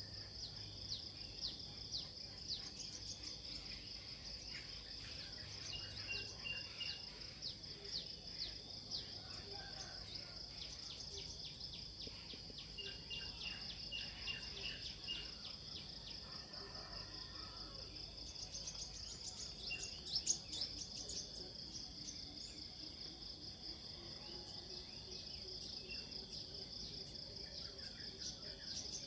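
A steady, high-pitched insect drone, with scattered bird chirps and calls over it.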